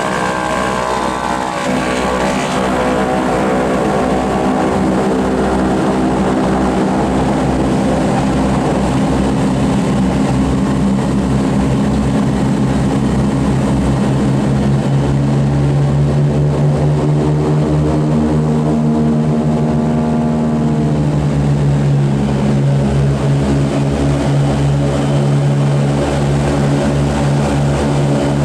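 Boeing B-29 Superfortress's Wright R-3350 radial piston engines running with propellers turning. The engine note shifts in pitch over the first few seconds, then a deeper, steady tone grows stronger from about halfway through.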